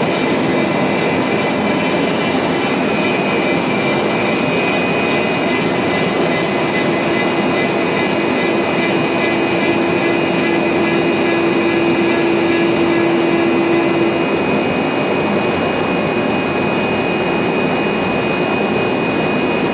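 CNC router cutting corrugated plastic sheet: a loud, steady whining hiss with a constant high tone, and a lower hum that comes in for several seconds midway.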